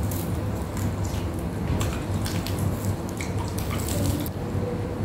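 Close eating sounds: crunching and chewing of crispy deep-fried tilapia, with irregular sharp crackles and wet mouth sounds. A steady low hum runs underneath.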